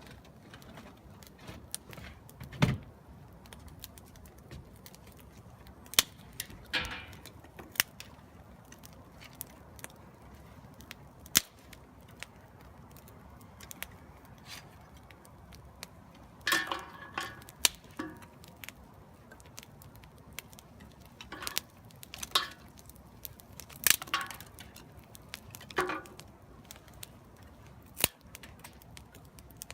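Small fire of picked-up green wood crackling in a fire pit as it catches, with scattered sharp pops at irregular intervals.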